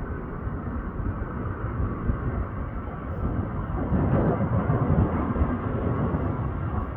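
Airbus A330 jet airliner on its takeoff: a steady roar and rumble of engines and rolling noise that grows louder about four seconds in.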